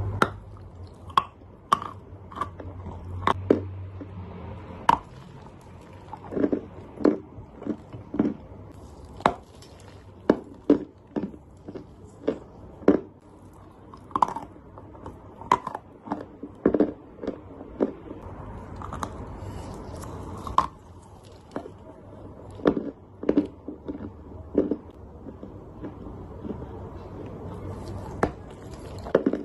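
Dry clay chunks being bitten and chewed up close: a long irregular series of sharp crunches, roughly one or two a second.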